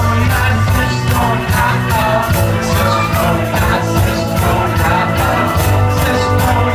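A live rock band playing at full volume, with a steady bass line and drums keeping an even beat on the cymbals.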